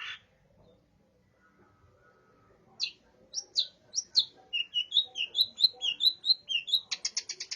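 Long-tailed shrike (cendet) singing, its song filled with mimicked tree sparrow chirps. After a pause of about two seconds come single sharp chirps, then a quicker run of rising and falling notes, and near the end a rapid chatter of chirps.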